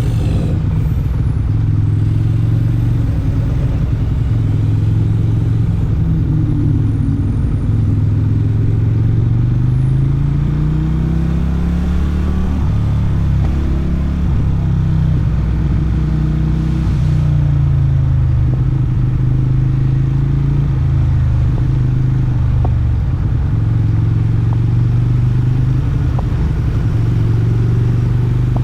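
Motorcycle engine and exhaust running while riding, its pitch climbing and falling with throttle and gear changes.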